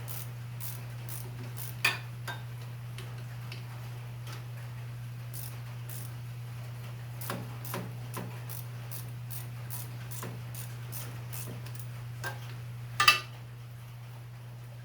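Hand ratchet clicking in short runs as a bolt is backed out. Two ringing metal clinks, the louder one near the end, from tools or parts knocking together.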